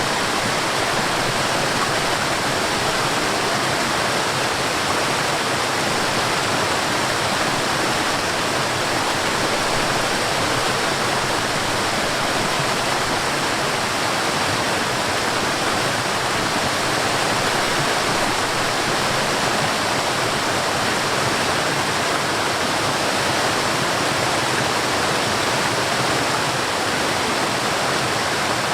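Forest waterfall: a steady, even rush of falling water with no breaks or changes.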